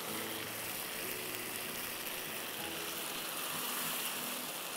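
Beef mince frying in a wet sauce in a non-stick wok over a gas flame, a steady sizzle as it is stirred with a spatula.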